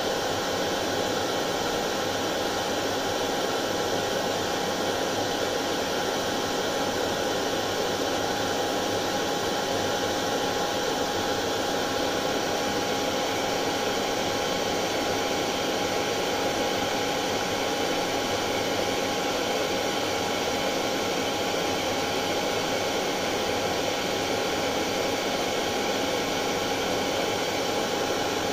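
Hair dryer running steadily: an even airy hiss with a constant whine, unchanging throughout.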